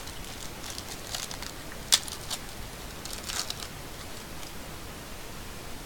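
Trading cards being handled: short rustles and slides of card stock, a sharp click about two seconds in, and more rustling a second later, over a steady hiss.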